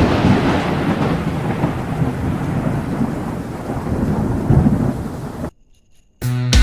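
A thunderclap followed by rolling thunder with rain, slowly fading and then cutting off abruptly about five and a half seconds in. Music begins just before the end.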